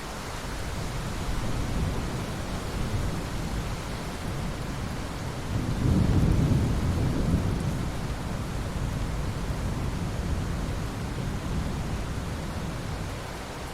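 Steady rainfall with a roll of thunder rumbling through it, swelling to its loudest about six seconds in and then easing off.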